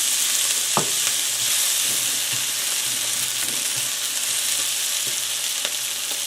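Onions sizzling as they fry in a pan, a steady hiss. A utensil knocks against the pan once about a second in, with a few fainter taps later.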